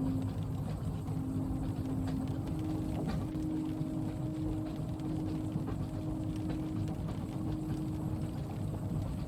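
Inside a moving train carriage: a steady low rumble with a humming tone that shifts slightly in pitch, and faint scattered ticks.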